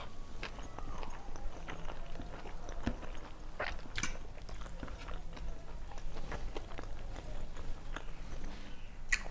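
Close-miked chewing of a mouthful of rice and curry, with irregular mouth clicks, and fingers mixing rice and curry on a steel plate.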